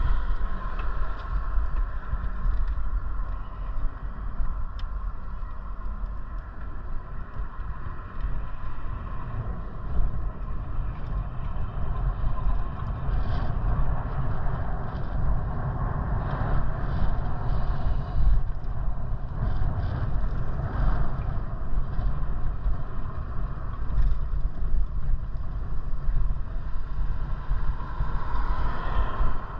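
Wind buffeting the microphone with an irregular low rumble while riding a bike along the road.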